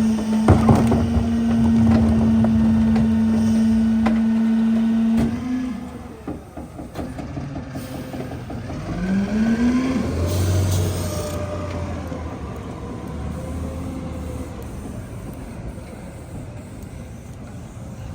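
Heil PowerTrak rear loader's packer hydraulics whining steadily under load, with a few metallic clanks, until the whine stops about five and a half seconds in. Then the CNG truck's engine note rises about nine seconds in and settles into a lower drone that fades.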